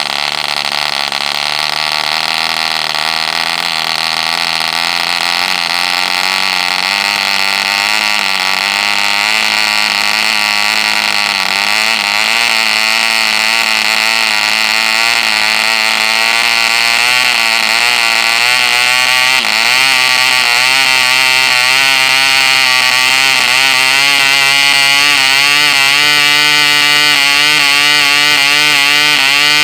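Cipolla 1.5cc Junior model glow engine running steadily with a high buzzing note, turning an 8x6 propeller. The pitch wavers slightly and the sound grows a little louder, with one brief dip about two-thirds of the way through.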